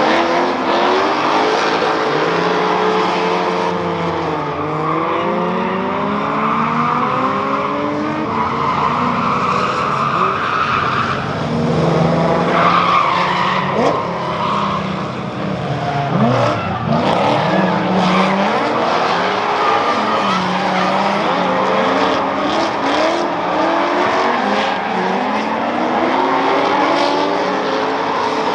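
Several drift cars revving hard at once, their engine notes climbing and dropping over one another, with tyres squealing and skidding through the slides.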